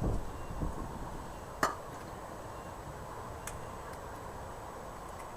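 Hand tools working on a motorcycle's mudguard bolts: a few low knocks at the start, then one sharp metallic clink with a short ring about a second and a half in, and a faint tick a couple of seconds later.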